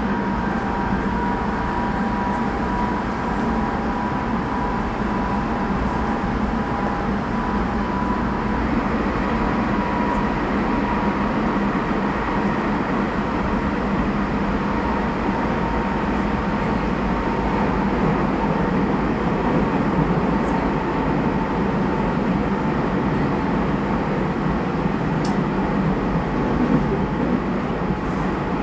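Tobu 20400 series electric train running, heard inside a motor car: steady wheel-and-rail rumble and motor noise, with a whine of several steady tones from the motor equipment that fades out about ten seconds in.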